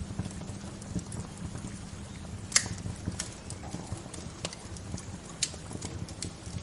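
Wood fire crackling: irregular sharp pops and snaps, the loudest about two and a half seconds in, over a steady low rushing background.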